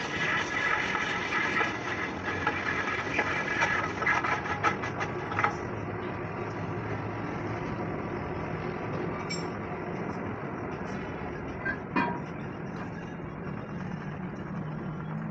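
Metal clattering and clanking for the first five seconds or so, then a steady engine-like hum with a single sharp metallic clank that rings briefly about twelve seconds in.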